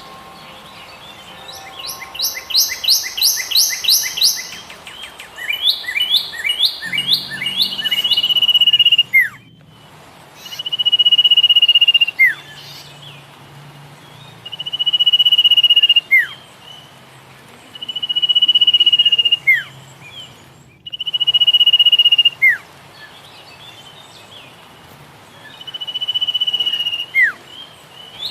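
Songbirds singing in a garden. Early on come quick runs of rising chirps. Then one bird repeats its song every three to four seconds: a buzzy trill held about a second, ending in a quick falling note.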